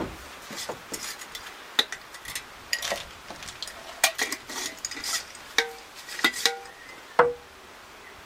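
Hard objects knocking and clinking together in a quick, irregular series of a dozen or so sharp hits, some with a brief ringing tone. The last and loudest clink comes about seven seconds in, and then it stops.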